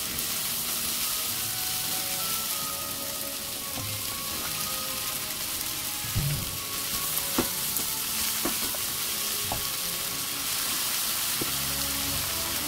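Sliced onions, then okra, sizzling as they stir-fry in oil in a nonstick wok, a steady frying hiss. A low thump about six seconds in and a few light knocks of the silicone spatula against the pan over the next few seconds.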